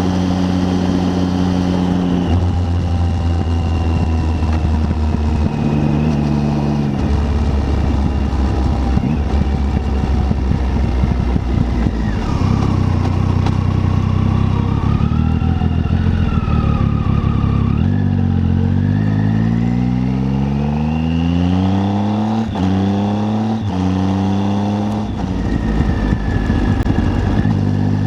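Triumph Tiger 800's three-cylinder engine running under way, its pitch stepping up and down with gear changes and rising steadily as the bike accelerates about two-thirds of the way through, over a steady rush of wind and road noise.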